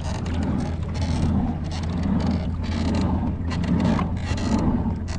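Kayak paddle strokes splashing in the water, swelling and fading about once a second, over a steady low drone.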